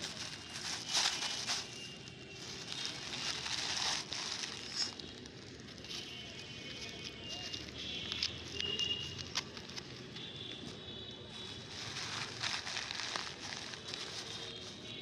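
Plastic waste and a plastic rubbish bag crackling and crinkling as they are handled, with irregular snaps and rustles.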